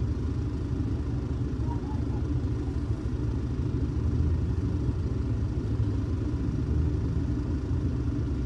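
Kyoto City bus heard from inside the cabin: a steady, low rumble of engine and road noise.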